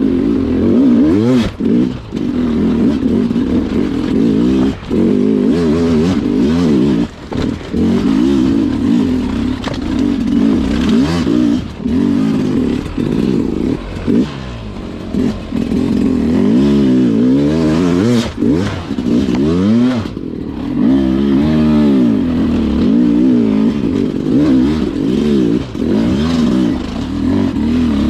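Sherco two-stroke dirt bike engine revving up and dropping back again and again as the throttle is worked, the pitch constantly rising and falling, with occasional knocks and clatter; the engine briefly goes quieter about two-thirds of the way through.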